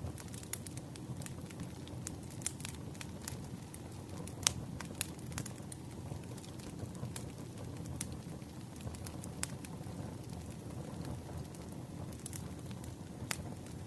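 Campfire crackling: irregular sharp pops and snaps, a few a second, over a steady low rush of burning.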